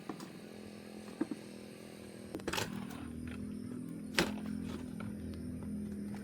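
An old Jeep's engine running steadily, its pitch rising slightly and getting louder about two and a half seconds in, with a few sharp clicks or knocks over the top.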